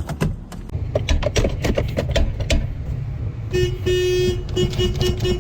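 A quick series of metallic knocks and clanks, then about three and a half seconds in a car horn honks: one longer blast followed by several short beeps.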